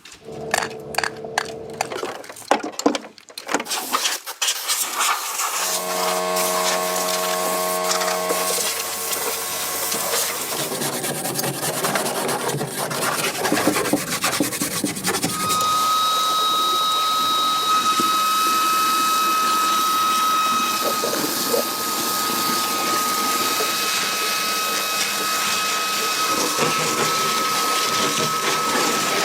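Workshop tool sounds: a run of clicks and knocks, a brief hum, then a power tool running steadily with a high whine.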